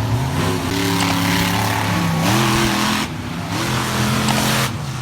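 Monster truck engine revving up and easing off several times, its pitch rising and falling, with a rushing noise over it.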